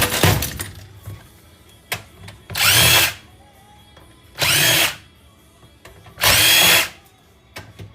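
Cordless power drill/driver spinning out screws from a stereo receiver's case in short bursts of about half a second, three times, each whining up in pitch as the motor spins up.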